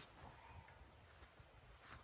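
Near silence, with a faint soft knock at the start and another near the end.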